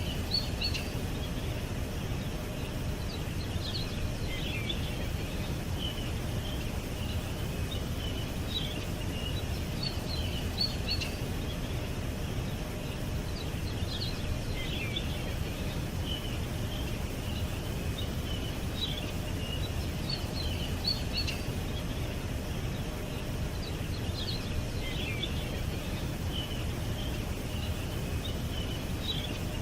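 Small birds chirping in short, high clusters every few seconds over a steady low background rumble.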